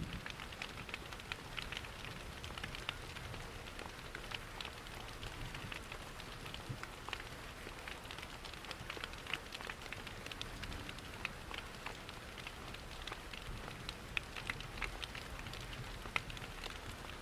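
Ambient mix of steady rain and a crackling wood fire in a fireplace: an even wash of rain noise with frequent small, sharp crackles scattered throughout.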